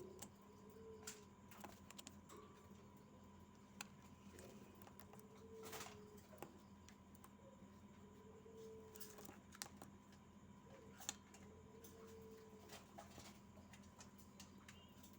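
Ringneck dove parent feeding its squab beak to beak, regurgitating crop food: faint scattered clicks and rustles, with four soft low hums a few seconds apart.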